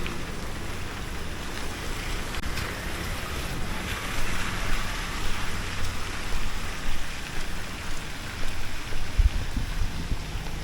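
Steady hiss of rain on a street with a low engine rumble underneath. The hiss swells for a couple of seconds in the middle.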